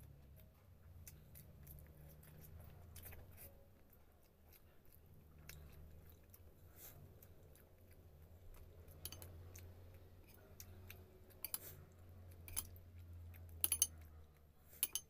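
Close-up chewing of mouthfuls of rice and fish, with soft wet clicks and smacks, over a low steady hum. A few sharper clicks come near the end.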